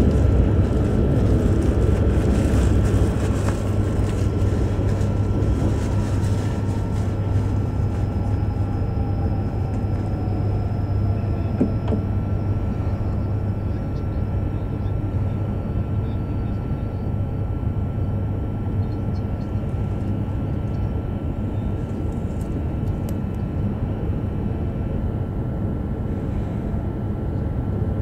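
E5 series Shinkansen running noise heard inside the passenger cabin as the train slows into a station: a steady low hum and rumble that eases off over the first half and then holds level, with a faint whine falling in pitch partway through.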